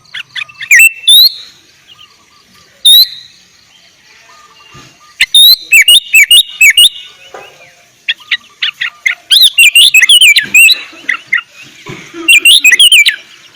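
Sooty-headed bulbul singing loud, chattering phrases of short, sharp whistled notes that jump up and down in pitch, with short pauses between phrases.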